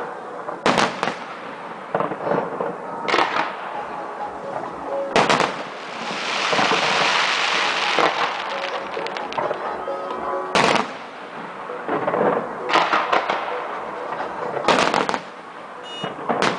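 Fireworks display: a dozen or so sharp bangs of bursting shells at irregular intervals, with a dense crackling hiss lasting about two seconds near the middle.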